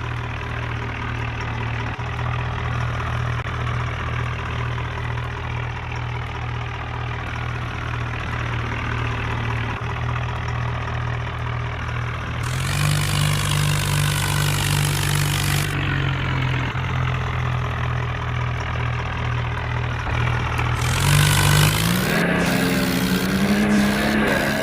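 Tractor engine running at a steady idle, revved up twice: once about halfway through and again near the end, where the revs climb.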